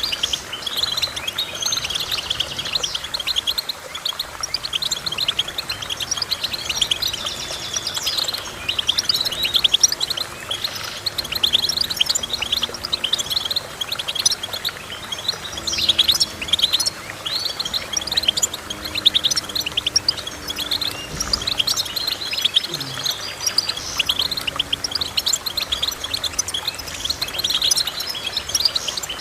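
Goldfinch singing: a rapid, continuous twittering of short high chirps and trills.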